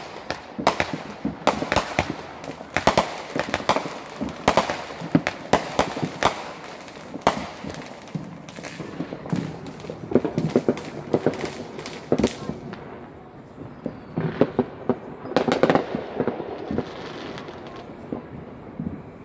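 Fireworks going off all around: a dense run of sharp bangs and crackling pops for about the first twelve seconds, then thinning to scattered, fainter pops and crackles.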